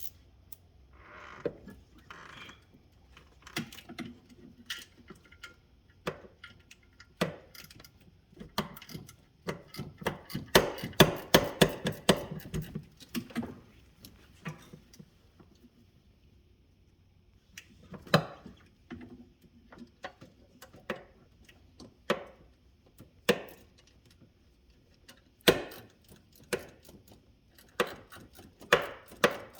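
Irregular clicks and knocks of tools and parts being handled, with a dense run of rapid ticking and clatter near the middle.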